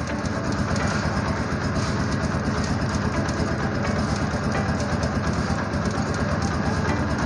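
Motorcycle engine running steadily at idle, a fast even low chugging throughout.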